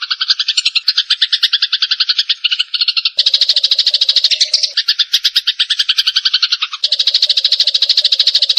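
Eurasian tree sparrows chattering in a fighting bout: a fast, unbroken train of short chirps that changes character abruptly a couple of times.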